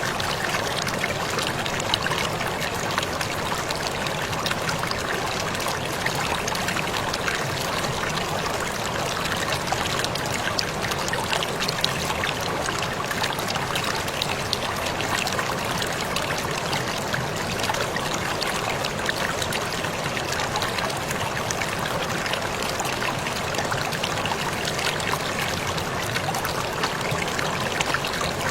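Waterfall running steadily: an even rush of falling water flecked with many small splashes.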